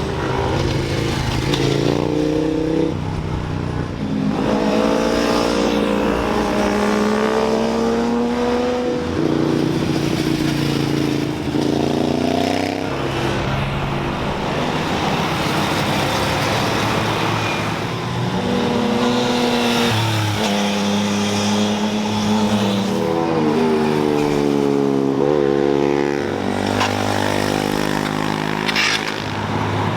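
Sport motorcycle and car engines passing one after another at high revs, the pitch rising under throttle and dropping back at each gear change or lift-off through the bends.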